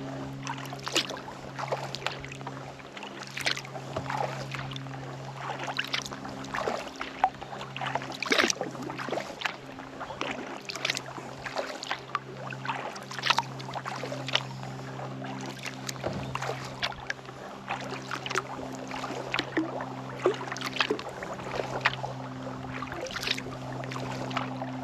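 Kayak paddle strokes dipping and splashing in calm lake water every second or two, with drips off the blades between strokes. A steady low hum runs underneath.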